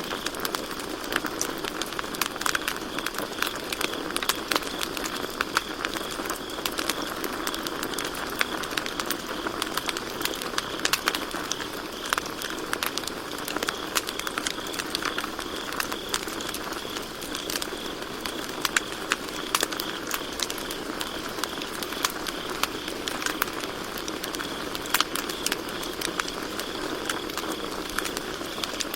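Campfire crackling and popping with a continuous run of irregular sharp snaps over a low hiss of burning wood, with a steady high chirping of crickets behind it.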